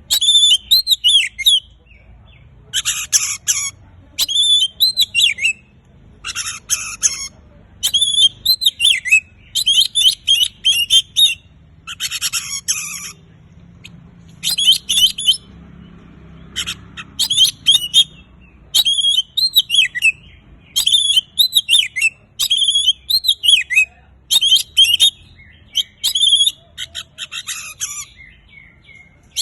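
Oriental magpie-robin in full song: loud, high, varied whistled phrases about a second long, repeated with short pauses, some of them mixed with harsh buzzy notes.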